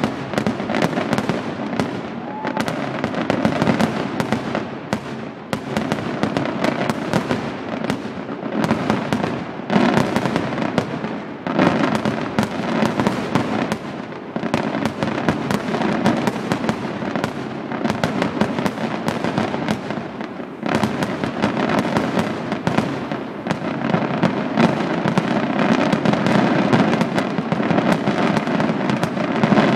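Large aerial fireworks display: a dense, unbroken barrage of shell bursts and crackle, many bangs a second.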